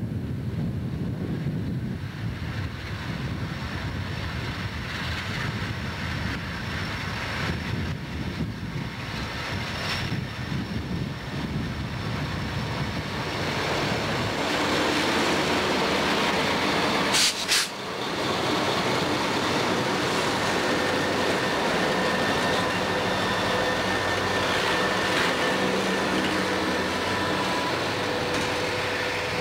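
A freight train's diesel locomotives approach and pass close by. A low rumble grows louder about halfway through as the engines' drone comes alongside, and one brief sharp crack is heard a little after that.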